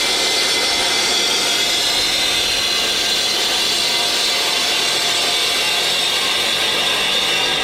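Mitre saw cutting a brick dry, running steadily through the cut with a high whine.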